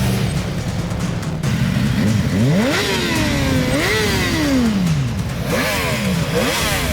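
Superbike engine revving hard, its pitch sweeping up and falling away several times from about two seconds in, as the bike accelerates and backs off.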